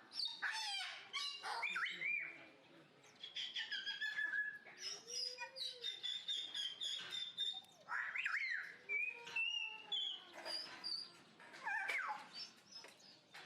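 Several birds chirping and calling at once, in short, overlapping whistled notes that rise and fall.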